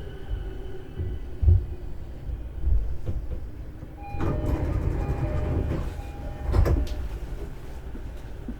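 E233-series commuter train standing at a station: low thumps, then the passenger doors sliding open about four seconds in with a rush of noise, and a second surge a couple of seconds later.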